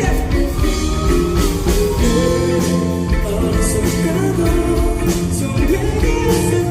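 Live pop-rock band music with guitar prominent, loud and continuous.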